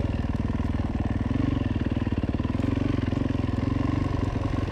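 Motorcycle engine running at low revs, a steady rapid pulsing that swells a little now and then with the throttle.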